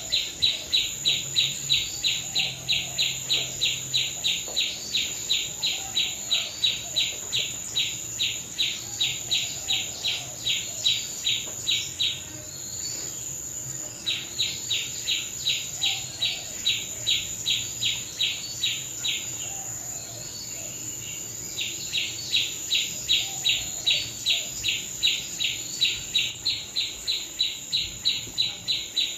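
Rhythmic high chirping, very regular at about three chirps a second, in three long runs broken by two short pauses, over a thin steady high-pitched whine.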